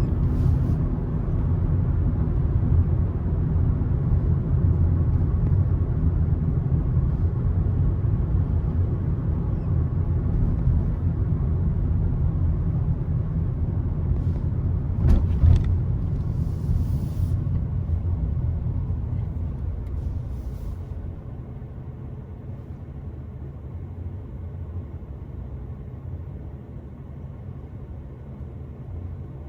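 Car driving on a country road: a steady low rumble of engine and tyres. A brief thump comes about halfway through, and the rumble turns noticeably quieter for the last third.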